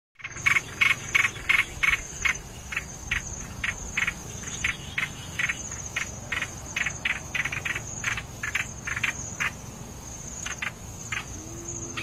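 A small bird giving a run of short, sharp chip calls about three a second, loudest over the first couple of seconds and thinning out near the end, over the steady high trill of insects.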